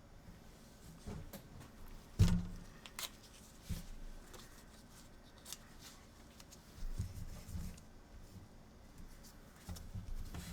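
Scattered clicks, taps and short scraping or rubbing noises from hands and a tool working on the PS4's APU and board while old thermal paste and pad remnants are cleaned off; one sharper knock about two seconds in is the loudest.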